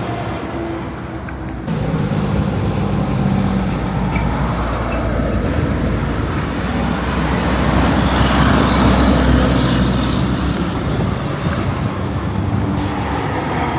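Road traffic with a heavy truck's engine running, getting louder about eight seconds in and then easing off.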